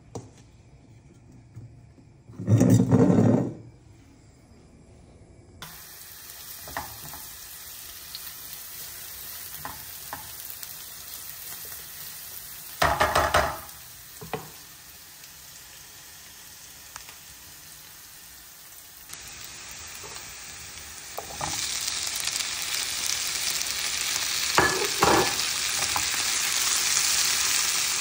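Diced onion, then onion with chopped vegetables, frying in oil in a nonstick pan, with a spatula stirring and scraping the pan. The sizzle grows much louder in the second half, broken by a few sharp clatters of utensils.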